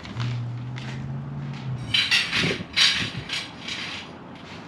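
A steady low hum for about a second and a half, then a burst of clattering and rustling: tent poles and canvas being handled.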